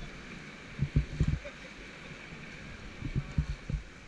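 Rushing river water around a raft, a steady hiss, with clusters of low thuds on the microphone about a second in and again about three seconds in.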